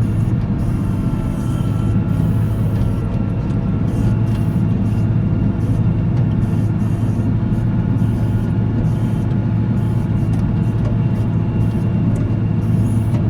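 Volvo L70C wheel loader's diesel engine running at a steady speed, a constant low drone with no change in pitch.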